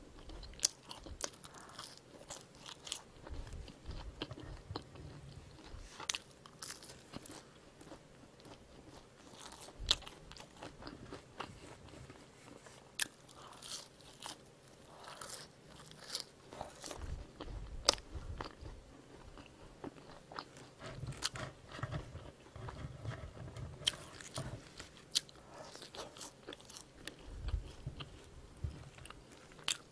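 Close-miked chewing of seasoned French fries: irregular soft crunches and sharp mouth clicks, with low thuds of the bite.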